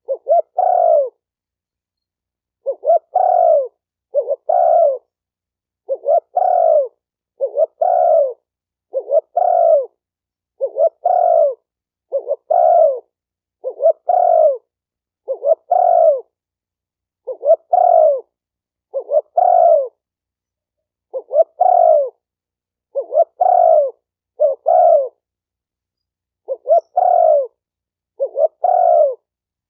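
Spotted dove cooing: short phrases of a few coo notes repeated about every second and a half, with a few slightly longer pauses.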